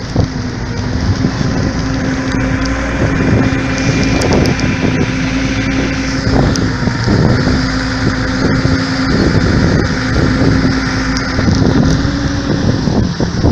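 Motorboat engine running at a steady speed, with water rushing past the hull and wind buffeting the microphone; the engine note drops near the end as the boat throttles back.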